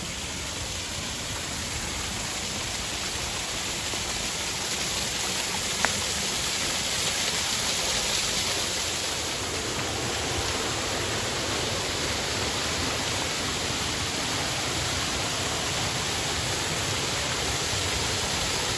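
Steady rushing of a small creek waterfall, growing a little louder over the first several seconds. A single brief click sounds about six seconds in.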